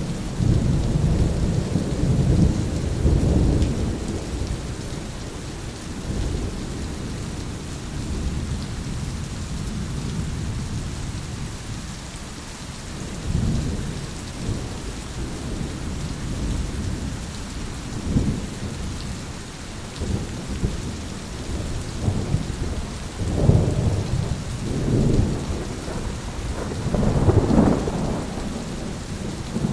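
Steady rain falling, with low rolling thunder. The thunder rumbles in the first few seconds and comes back several times near the end.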